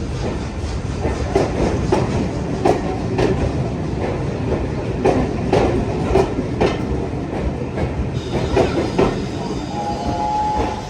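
A train running along the line: steady rumble of the wheels with irregular clicks as they cross rail joints, and a brief thin squeal near the end.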